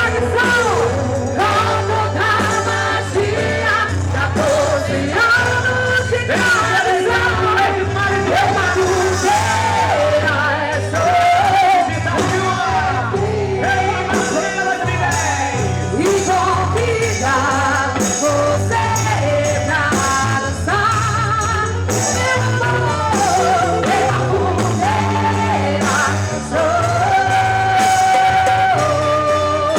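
A live quadrilha junina regional band playing with a lead singer: continuous sung melody over steady instrumental accompaniment.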